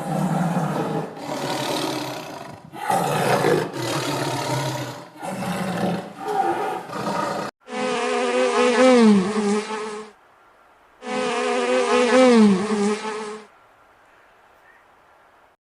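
Animal calls: a run of about seven rough, noisy bursts of roughly a second each, then two long pitched calls with a wavering pitch, a second apart.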